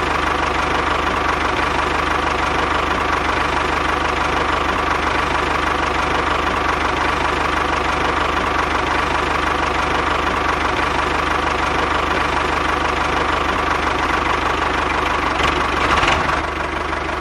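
Mini tractor's engine running at a steady, even speed, with a slight change near the end.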